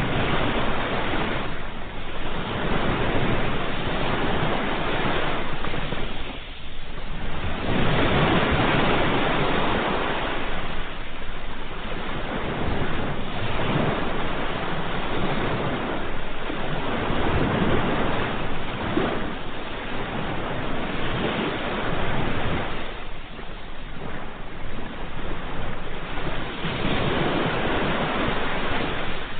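Ocean waves breaking and washing on the shore: a continuous rushing surf that swells and eases every few seconds as successive waves come in.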